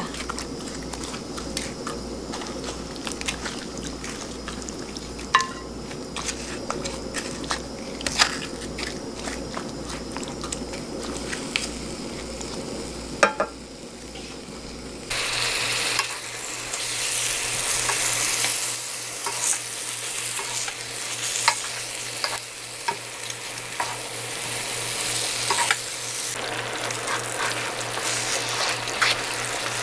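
Thin-sliced pork belly in gochujang marinade frying in a frying pan while being stir-fried, with spatulas scraping and clicking against the pan. The sizzling is quiet at first, in a pan not yet fully hot, and gets louder and hissier about halfway through as the pan heats up.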